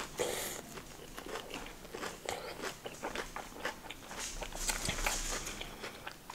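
Close-miked chewing of a pani puri: the crisp fried puri shell crunching between the teeth in many small crackles.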